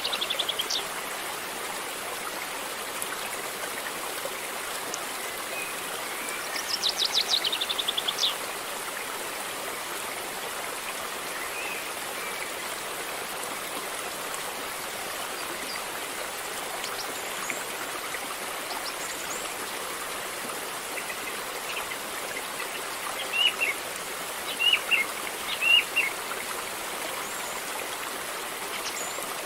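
River water flowing steadily with an even rushing sound. A bird gives a rapid high trill twice, at the very start and about seven seconds in, and a few short chirps come between about 23 and 26 seconds.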